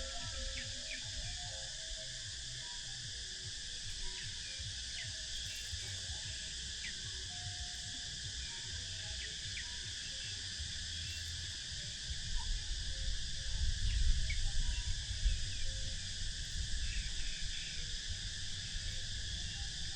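A steady insect chorus of crickets or cicadas, with scattered short, faint bird chirps. A low rumble like wind on the microphone rises about two-thirds of the way in, then eases off.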